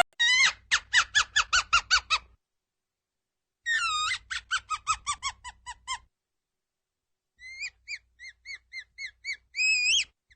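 An animal calling in three bouts of rapid, high-pitched notes, each note dropping in pitch, with short silences between the bouts.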